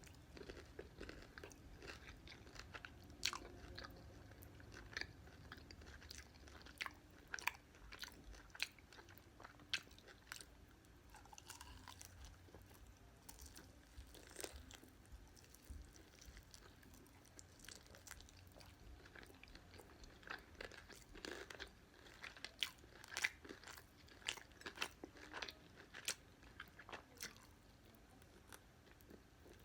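Close-up chewing of crispy fried chicken: irregular crunches and wet mouth clicks as the breading is bitten and chewed.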